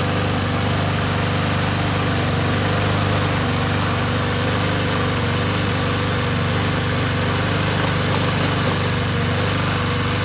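Honda GCV160 single-cylinder overhead-cam lawnmower engine running steadily, with ketchup in its crankcase instead of oil.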